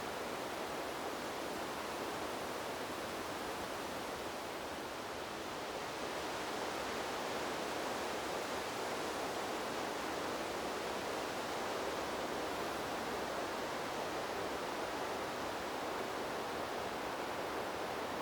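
Wind blowing steadily through trees, an even rushing hiss that eases slightly a few seconds in and then swells a little.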